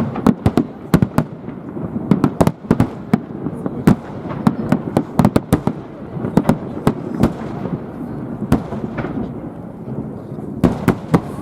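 Aerial fireworks bursting in quick, irregular succession. The sharp reports come several a second over a continuous rolling rumble of booms.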